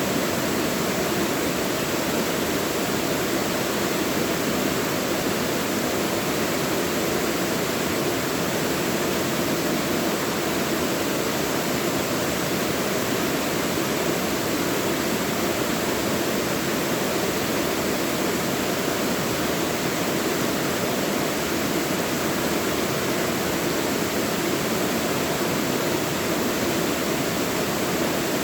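Mountain stream rushing steadily over rocks in a valley: an even, unbroken water noise with no separate splashes.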